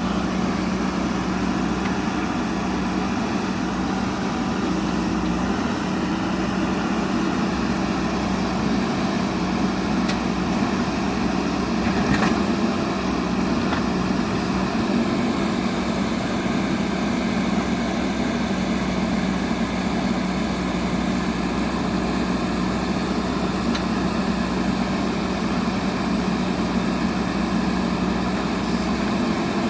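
Diesel engine of a JCB backhoe loader running steadily at a constant pitch, with a few faint clicks over it.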